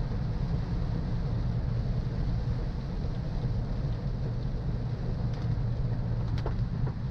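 Steady low rumble of a car driving on a wet road, with the hiss of rain and wet tyres over it.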